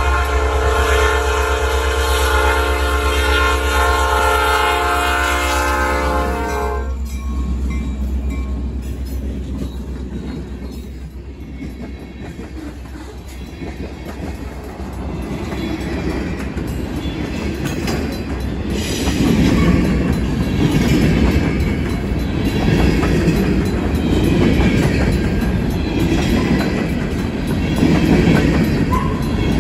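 Freight locomotive horn holding one long blast that cuts off about seven seconds in. Then the train's tank cars and covered hoppers roll past, their wheels rumbling and clacking over the rail joints, growing louder in the second half.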